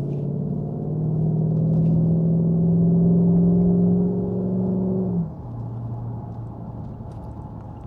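Jaguar XK8's V8 exhaust droning under steady acceleration, its note rising slowly, then dropping away suddenly about five seconds in to a quieter, lower hum. Heard from inside the car over wind and road noise.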